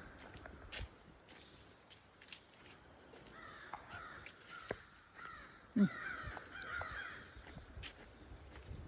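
American crows cawing in two rough runs of calls, over a steady high-pitched insect trill, with scattered light ticks and crunches.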